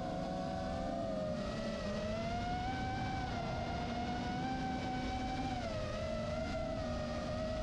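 Electric motor and propeller of a 12-foot foam radio-controlled Cub in flight, giving a steady whine that rises slightly about two seconds in and dips near six seconds as throttle and distance change.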